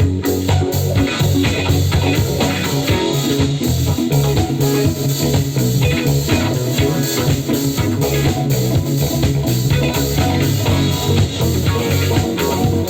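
Live band playing organic trance: electric guitar lines over a steady bass line and drum kit keeping a driving beat.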